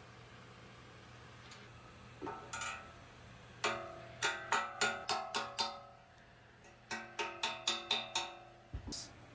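Metal parts being struck, ringing clanks: a couple of strikes, then two quick runs of about six clanks each, with a last clank near the end.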